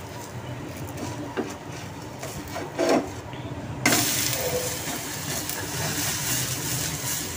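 Dosa sizzling on a hot non-stick tawa: a steady hiss that starts suddenly about four seconds in. Before that there is a quieter stretch with a few light knocks.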